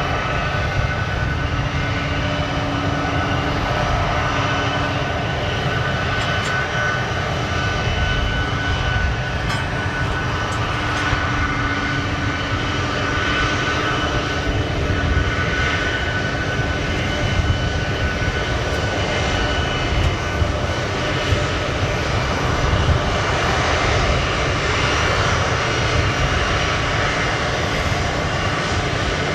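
Boeing C-17 Globemaster III's four turbofan engines running steadily, a deep rumble under a constant whine.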